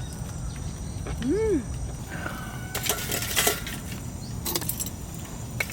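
A short hummed "mm" from the person eating about a second in, then scattered sharp clicks and crackles over a steady low outdoor rumble.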